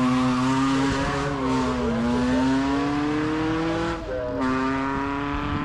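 Prewar racing car's engine running hard up the hill climb, its note rising under acceleration, with a short break and drop in pitch about four seconds in, like a gear change, before it pulls on again.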